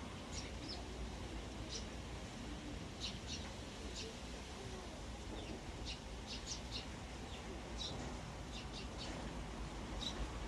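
Eurasian tree sparrows chirping: many short, high chirps scattered irregularly, over a steady low rumble of wind on the microphone.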